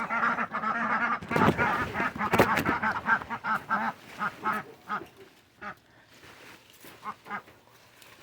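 Ducks quacking, a fast run of repeated calls that thins out and fades after about four seconds.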